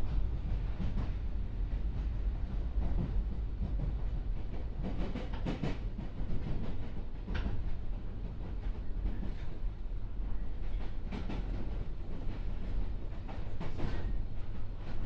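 JR West 201 series electric train running, heard inside the passenger car: a steady low rumble from the wheels and bogies, with the wheels clattering over rail joints every few seconds.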